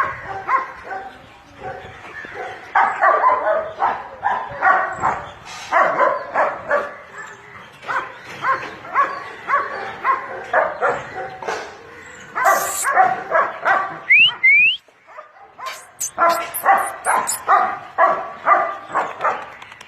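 A dog barking repeatedly in quick runs of several barks a second, with a short pause about two-thirds of the way through. Two short rising chirps are heard during the pause.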